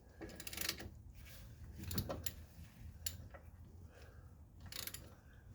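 Irregular metallic clicks and scrapes of tools being fitted on and worked against the bolt of a bolt-and-adapter press, used to push a seized shaft out of a lower control arm bushing.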